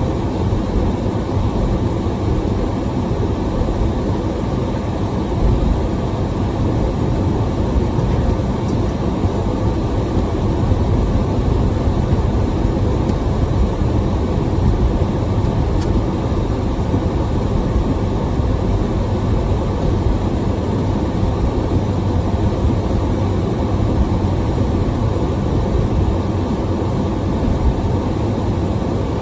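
Steady low rumble heard from inside a car in a severe thunderstorm: road and wind noise with rain against the vehicle.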